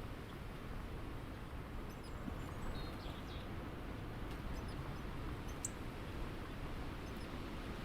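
Backyard ambience: a steady low outdoor rumble, with a few faint, short high chirps a little before the middle and one sharp tick after it.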